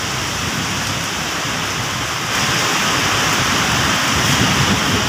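Heavy rain pouring down, a steady dense hiss that grows louder about halfway through.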